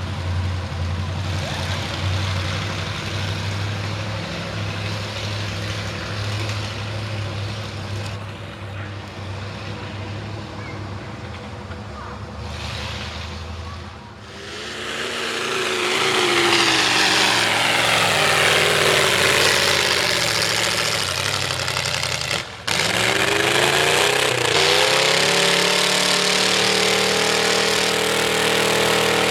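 V8 truck engine with open upright headers, first running at a low steady speed, then revving hard with rising pitch about halfway through. A short break in the sound near the end, about eight seconds later, fits a lift off the throttle for a manual gear shift, after which it revs up again.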